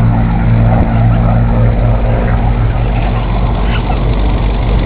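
P-51 Mustang's V-12 piston engine running steadily and loudly with a deep, even drone.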